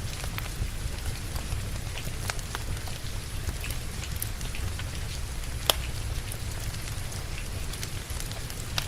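Steady rain with a low rumble underneath, mixed with a wood fire crackling in scattered sharp pops. The loudest pop comes a little over halfway through.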